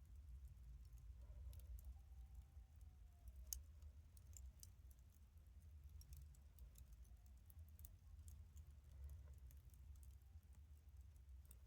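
Faint crackling of a wood campfire: sparse small pops and ticks, with one sharper pop about three and a half seconds in, over a low steady rumble.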